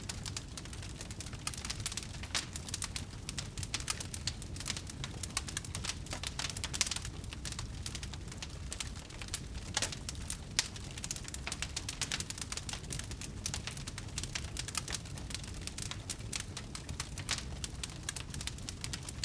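Wood fire crackling in a fireplace: a steady run of sharp pops and snaps over a low rumble from the flames.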